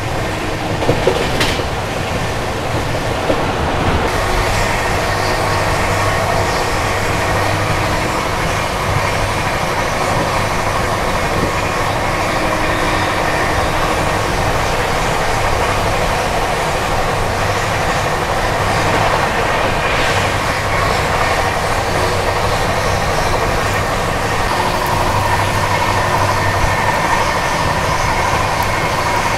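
Express passenger train running on the track, heard from inside a coach: a steady rumble of wheels and coach.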